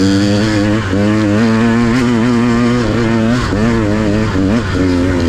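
Dirt bike engine running under changing throttle, its pitch rising and falling with a few brief dips.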